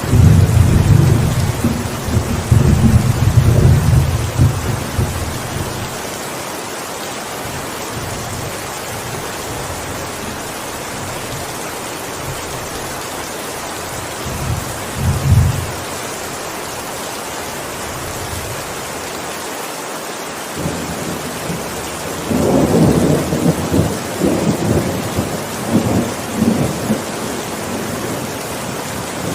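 Steady rain falling, with thunder rumbling three times: a long, loud roll over the first five seconds, a short clap about fifteen seconds in, and another rolling spell a few seconds from the end.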